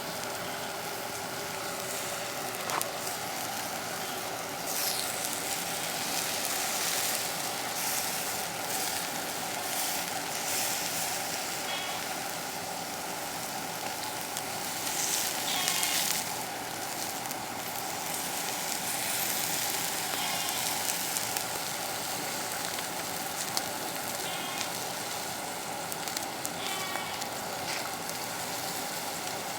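Food sizzling in a steady hiss as it cooks. A few short, high calls break in about a dozen seconds in and several times after.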